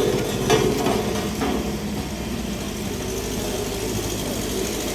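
A vehicle engine running steadily at low revs, with a few short knocks in the first second and a half.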